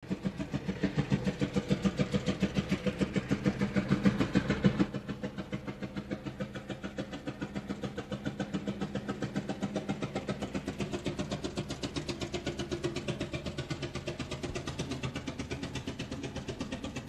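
Veteran De Dion-Bouton car's engine running with a steady, even beat of exhaust pulses. It drops in loudness about five seconds in and keeps its beat.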